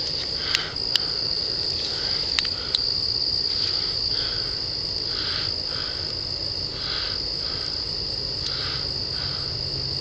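Night insect chorus: a steady high-pitched trill with a softer, evenly pulsing call beneath it. A few sharp clicks come in the first few seconds.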